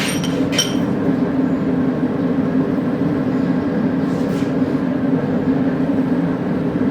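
Steady, constant rushing hum of a running forge, with two light ringing metal clinks in the first second from a hammer tapping a punch to mark the centre of the horseshoe for a hole.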